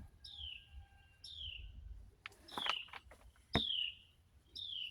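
Sparrow chirping: a short falling chirp repeated about once a second. A cluster of clicks comes a little before halfway, and a sharp knock follows about three and a half seconds in.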